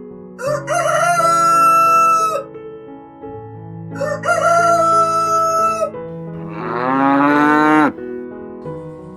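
Rooster crowing twice in long drawn-out calls, then a third call that rises and cuts off sharply, over background music with sustained notes.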